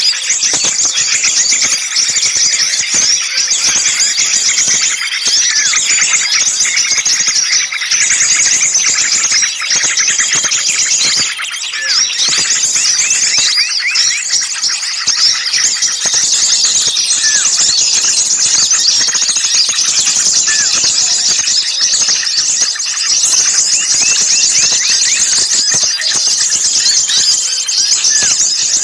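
A dense chorus of many small songbirds calling at once: rapid, overlapping high-pitched chirps, twitters and short whistled notes with no pause. These are noisy, agitated calls of the kind played as a lure to draw small birds in.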